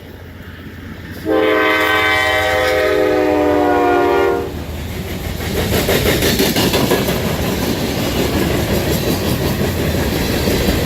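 Locomotive horn sounding one long blast, starting about a second in and lasting about three seconds, as a train approaches. The train then passes close by with the loud, steady rumble and clatter of its wheels on the rails.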